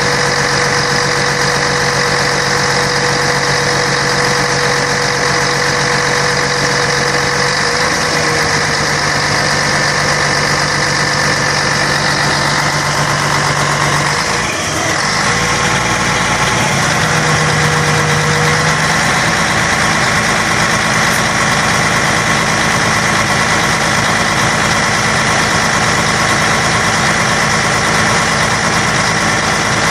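Scania K113 bus's 11-litre six-cylinder diesel engine running steadily at a low, even speed. There is a brief dip and change in its low hum about halfway through.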